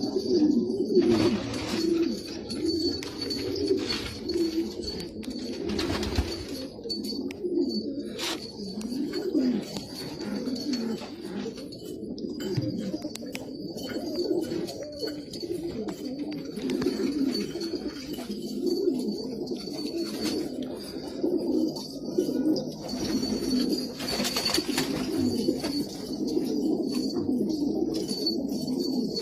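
A flock of domestic pigeons cooing, many low coos overlapping without pause. A faint steady high whine runs underneath, with a few soft clicks.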